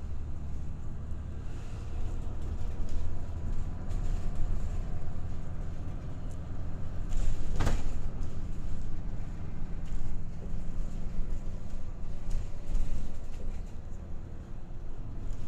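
Route bus heard from inside the cabin while driving: a steady engine drone and road rumble. There is a short loud noise about halfway through.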